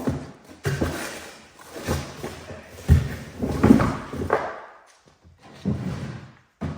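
A run of knocks and thumps, about eight of them at uneven intervals, as frozen poultry is shifted and packed around inside a freezer.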